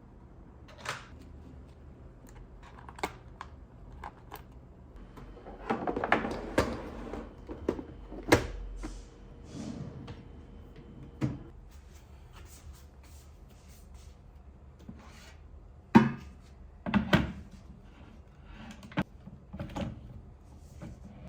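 Scattered light knocks, clicks and rustles of small household objects being handled and set down, with a busier patch of handling about six seconds in and a few sharper knocks later on.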